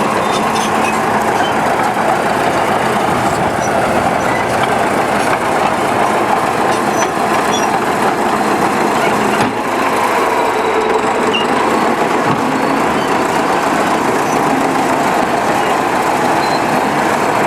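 Heavy diesel machinery running steadily under load, a continuous engine noise of land-clearing work.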